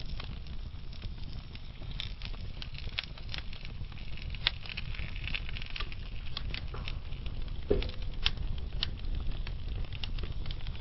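Wood fire burning slowly, a steady low rumble with many scattered sharp crackles and pops from the burning logs.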